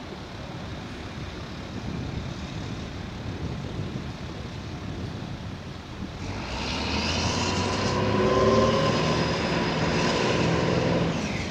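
Push boat's 300 hp John Deere diesel engine running, heard at a distance at first, then growing much louder from about six seconds in as the boat passes close under power, and falling away just before the end.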